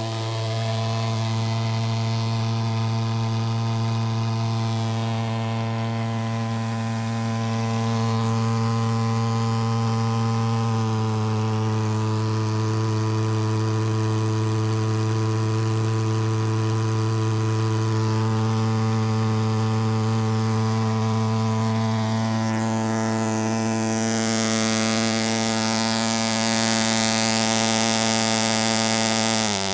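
Pulsejet engine running steadily with a loud, low-pitched drone, its firing rate holding at about a hundred pulses a second with a small shift in pitch about a third of the way in. At the very end the pitch sags and the engine cuts out.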